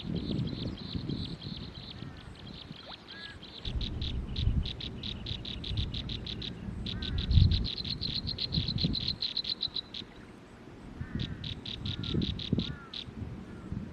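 Forest wildlife calling: bouts of a rapid, evenly pulsed high-pitched trill that starts and stops several times, with short chirps lower down and a low uneven rumble underneath.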